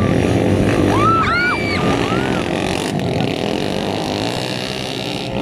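Motocross motorcycle engines running in a steady din, with a short high rising-and-falling call, like a whistle or a shout, about a second in.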